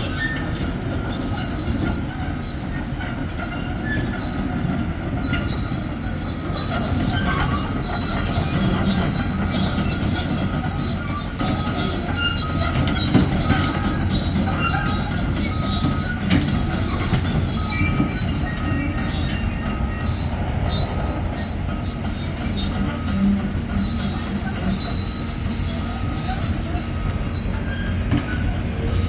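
Steel crawler tracks of a CAT 336 excavator squealing continuously as the machine travels, over a steady low engine rumble.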